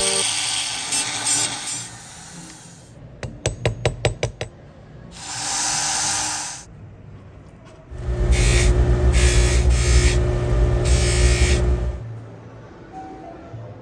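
A jeweller's rotary tool runs for about four seconds in the second half, a steady low hum under pulsing higher noise, as a wheel works the metal. Before it comes a quick run of sharp clicks and a short hiss.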